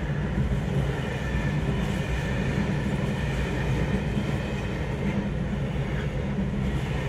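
Freight train of container and tank-container flat wagons rolling past close by, its wheels running over the rails with a steady rumble.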